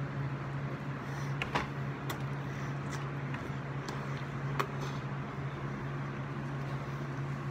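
A person chewing a mouthful of crispy chicken sandwich, with a few short wet clicks and smacks, over a steady low hum.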